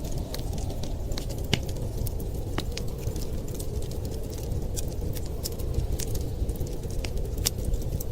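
Wood fire crackling, with irregular sharp pops and snaps over a steady low rumble; the loudest pop comes about one and a half seconds in.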